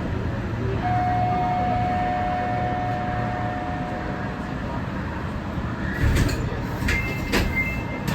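Kita-Osaka Kyuko 9000 series electric train running with a steady low rumble and a steady whine for a few seconds. Several sharp clicks come near the end.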